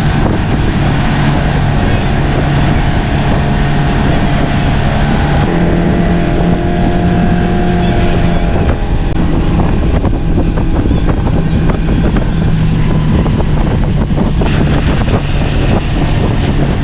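Motorboat engine running steadily at speed, with wind buffeting the microphone. The engine pitch steps up about five seconds in and shifts again a few seconds later.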